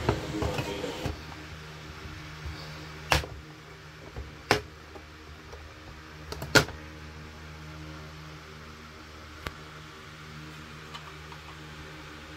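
A steady low mechanical hum, like a small motor or household appliance running, with three sharp knocks or clicks in the first seven seconds and a fainter tick later.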